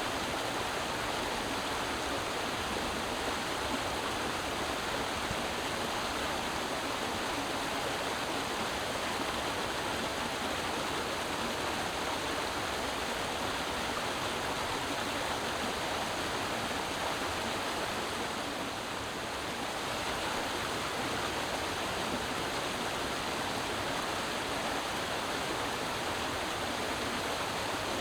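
Creek water running and splashing over rocks in a steady rush, dipping slightly about two-thirds of the way through.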